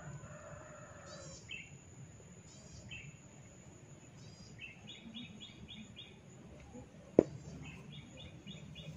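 Small birds chirping in the background in quick runs of short, high notes, with one sharp crack about seven seconds in.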